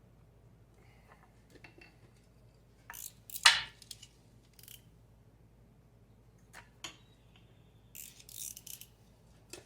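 Scattered clicks and clattering of small hard objects, the loudest about three and a half seconds in, with a short jangling rattle near the end.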